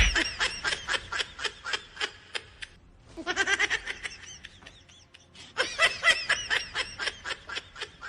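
A person laughing in quick, high-pitched pulses, in three fits separated by short pauses.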